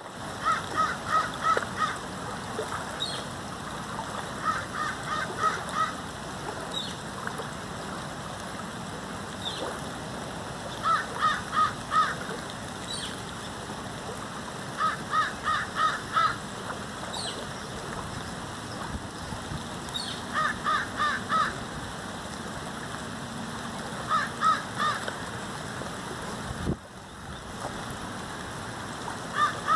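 A bird calling in clusters of three or four short notes, repeated every four to five seconds, over a steady hiss of rain.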